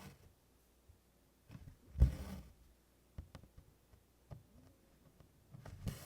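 Embroidery needle and cotton floss being worked through 24-count Congress cloth in tent stitch: soft ticks of the needle passing the fabric, and two short hissing pulls of thread drawn through, the louder about two seconds in and another just before the end.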